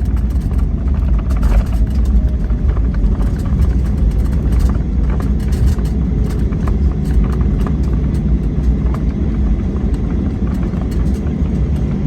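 Steady low rumble in the cabin of a Boeing 737-800 rolling on the runway just after touchdown, with scattered light clicks and rattles.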